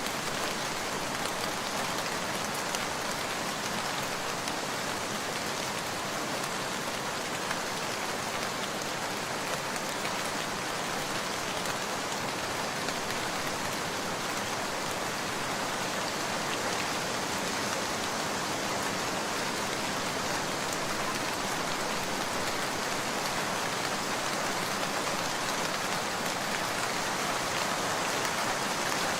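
Steady rain falling, an even hiss with a light patter of individual drops.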